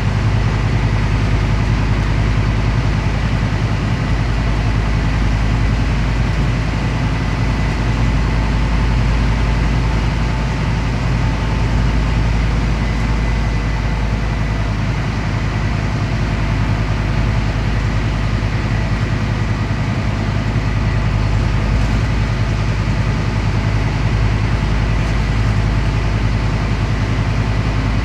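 Scania CN270UB city bus under way, heard from inside the passenger cabin: a steady low engine drone with road and tyre rumble, and a faint steady high whine above it.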